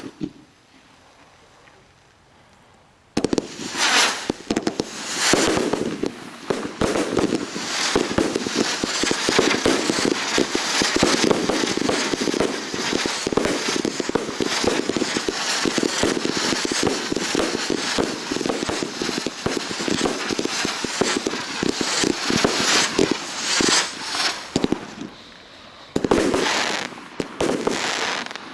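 Fireworks display: a dense, rapid run of bangs and crackling starts suddenly about three seconds in. It dips briefly near the end, then picks up again.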